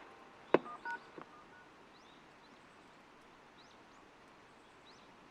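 A sharp click followed by a few short electronic beeps at different pitches, then faint, brief rising chirps over a low background.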